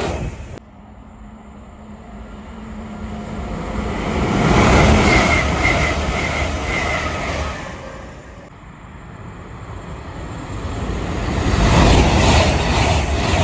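Trains passing at speed on a main line: the rush of wheels and air builds to a loud peak with a thin wavering whine, fades, then cuts abruptly to another train building to a loud pass near the end.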